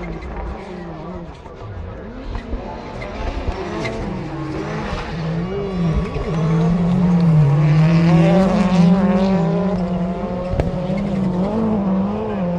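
Several rallycross Supercars, turbocharged four-cylinder racing cars, running flat out, their engines revving up and down through gear changes and overlapping. The engine sound grows loudest about seven to nine seconds in as the cars come closest.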